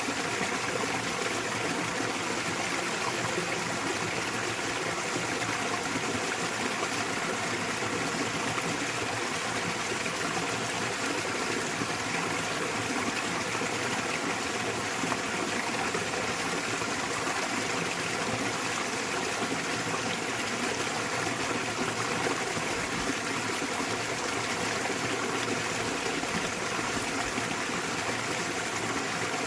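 Small waterfall and mountain stream: water falling and running over rocks in a steady, unbroken rush.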